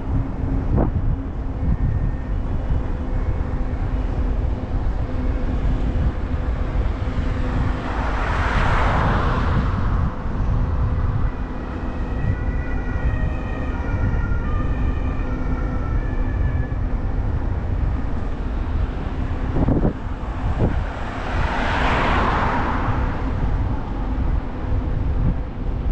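Wind rumbling on the microphone of a moving e-bike, over a steady low hum, with two vehicles swelling past and fading. In the middle comes a run of high, shifting tones like a distant siren.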